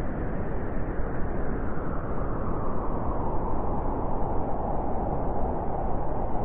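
Winter wind blowing in a steady rush, with its higher whooshing band swelling a little in the second half.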